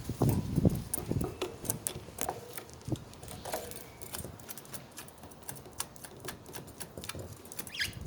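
Pet budgies moving about their cage: rapid irregular clicks and taps of beaks and claws on perches, bars and toys, with a few soft thumps in the first second.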